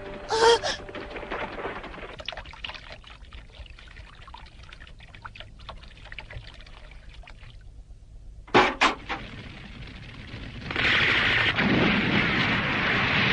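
Soundtrack effects for an animated action scene: a sharp hit about half a second in, a quiet crackly stretch, two more sharp hits about nine seconds in, then a steady rushing noise from about eleven seconds on.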